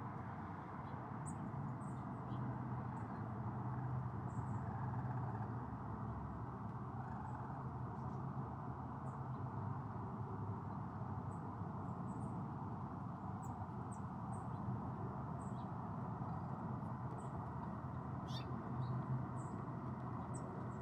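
Steady rain falling, with many short, high squeaks or chirps scattered through it, a quick cluster of them near the end.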